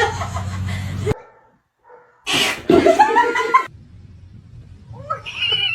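A pet's vocal call, loud and about a second and a half long with bending pitch, after a short break in the sound; a shorter, higher call follows near the end.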